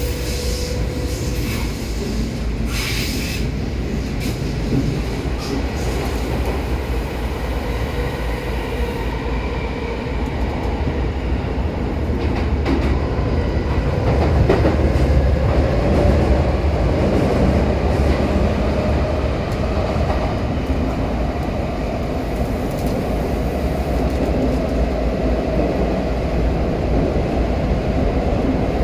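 Odakyu 4000-series electric commuter train running, heard from inside the car by the doors: a steady rumble of wheels on rail with scattered clicks early on. It gets louder from about halfway through.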